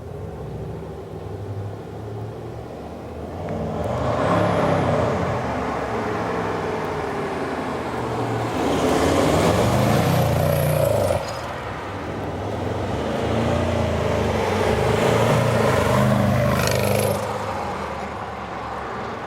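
Mercedes E420 CDI's OM629 twin-turbo V8 diesel running through a straight-piped exhaust, the DPF and resonator removed and the mufflers emptied. It is revved up three times, rising in pitch each time and dropping back to a lower run between revs. The second rev cuts off suddenly.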